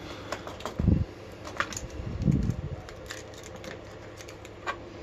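Light clicks and taps of small metal lock parts being handled as the tail piece comes off a Yale rim cylinder, with dull knocks about a second in and again a little after two seconds, over a steady low hum.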